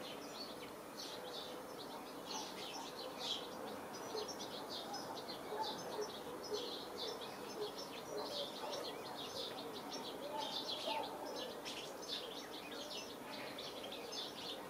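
Small birds chirping in the morning, a busy stream of short, high chirps and calls from more than one bird, fairly quiet against a calm background.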